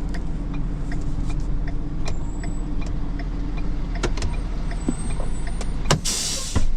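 A vehicle engine idling steadily, with scattered light clicks. About six seconds in comes a sharp knock, followed by a brief loud rush of noise.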